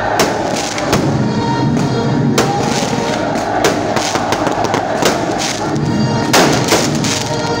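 Fireworks going off overhead: a string of sharp bangs and crackles from rockets and aerial shells, about one or two a second, with the two loudest bangs close together near the end. Music plays steadily underneath.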